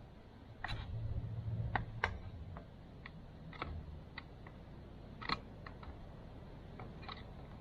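Scattered clicks and light taps of hand tools on a tightly stuck oil filter, with a brief low rumble of handling about a second in.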